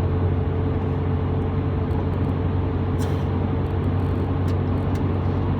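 Steady engine and road drone heard inside a truck's cab while cruising at highway speed, with a low hum and a faint steady higher tone.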